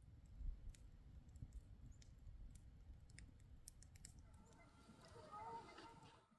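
Faint scattered clicks over a low rumble, then from about four seconds in a run of wavering bird calls.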